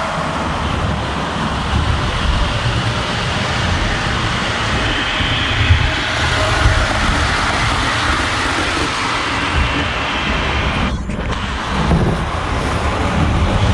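Model steam locomotive running on the layout: a steady rumble with a hiss over it, dipping briefly about eleven seconds in.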